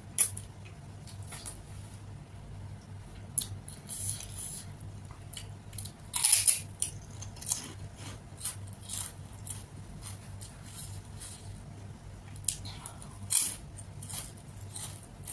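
Close-miked chewing: crunching on crispy fried pink snack sticks ('colorful fingers'), with many short, sharp crunches and mouth clicks scattered irregularly over a low steady hum.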